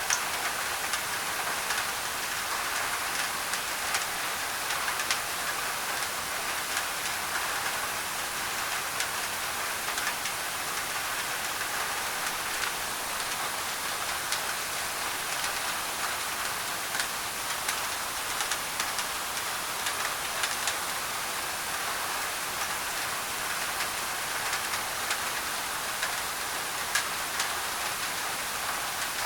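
Steady rain on a thin tin roof: constant hiss with many small sharp drop ticks, mixed with an even layer of white noise.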